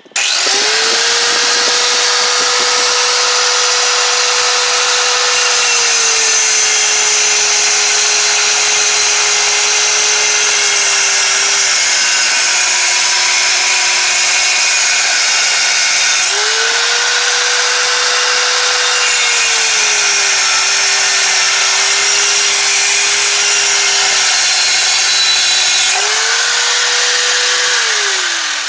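Angle grinder with a cutting disc cutting through the car's steel exhaust. The motor's whine sags in pitch as the disc is pressed into the metal and climbs back each time the load eases, twice, over a steady harsh grinding hiss. The whine winds down near the end as the grinder is let off.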